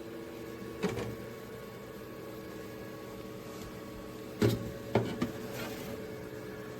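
A few clunks and knocks of the air fryer toaster oven and its metal accessories being handled: one about a second in, then three close together near the end. A steady hum runs underneath.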